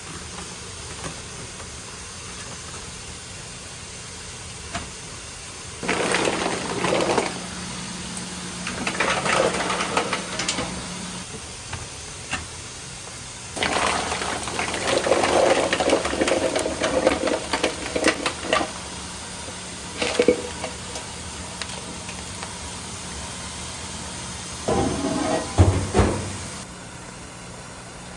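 Water running or pouring in several bursts of a few seconds each, over steady kitchen background noise.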